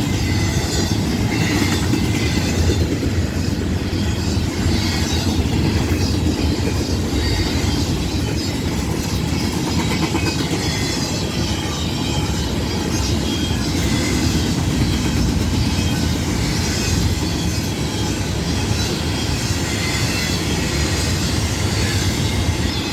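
Long freight train's cars rolling past: a steady rumble and clatter of steel wheels on the rails.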